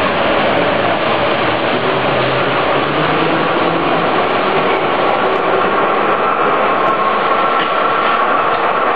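Fiat Materfer subway car running along the line, a loud, steady rumble of wheels and rails heard from inside the car, with a faint whine above the noise.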